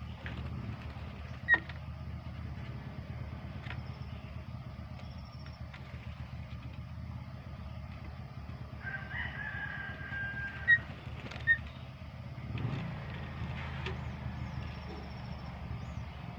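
A rooster crows once, about nine seconds in, a held call lasting about a second and a half, over a steady low rumble. Three short, sharp, loud sounds stand out, one near the start and two just after the crow.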